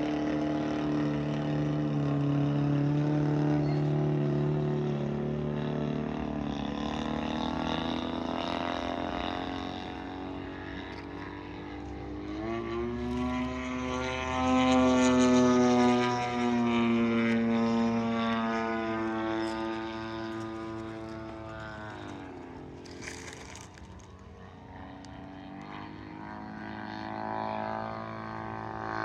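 Radio-controlled model airplane's engine and propeller running in flight, one steady pitched tone whose pitch rises and grows louder as the plane comes past about halfway through, then drops away as it recedes.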